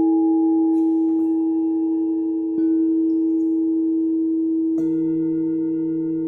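Singing bowls ringing in long, sustained pure tones. One is struck again about two and a half seconds in, and near five seconds another bowl is struck, adding a deeper tone beneath the others.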